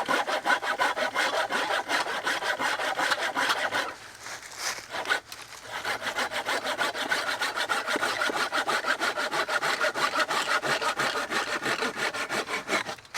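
Hand saw cutting through a log of firewood in quick, even back-and-forth strokes. The sawing stops about four seconds in and picks up again a second and a half later.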